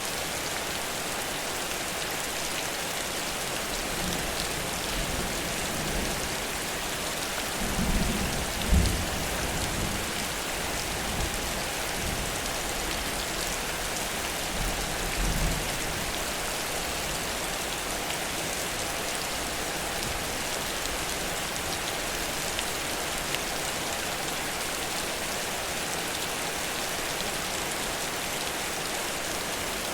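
Heavy rain pouring steadily onto surfaces. A few low rumbles come through, the loudest a little over a third of the way in and another about halfway.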